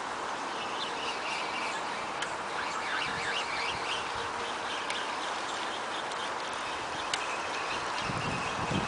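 Birds chirping and calling, busiest in the first few seconds, over a steady outdoor background hiss, with a few faint clicks.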